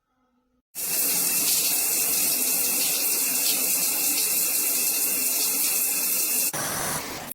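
Water spraying from a shower head, a steady hiss that starts abruptly about a second in. Near the end the spray sound changes and grows slightly quieter, then cuts off suddenly.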